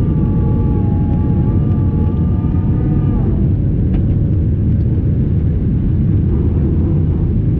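Airbus A320 cabin noise: the jet engines and airflow make a loud, steady rumble. A wavering whine rides on top and drops away about three seconds in.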